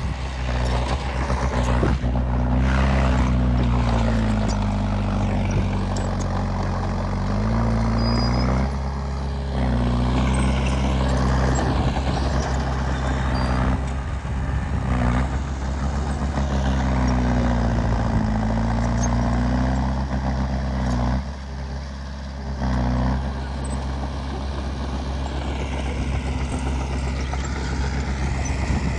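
Diesel engine of a Komatsu D20P bulldozer working as it pushes soil, its pitch rising and falling repeatedly as the load and throttle change, easing off briefly a few times.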